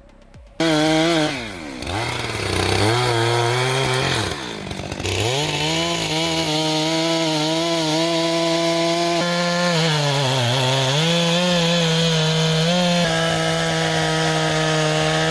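Chainsaw running at high revs and cutting into wood. It starts suddenly about half a second in, and its pitch sags and recovers a few times as the chain loads in the cut.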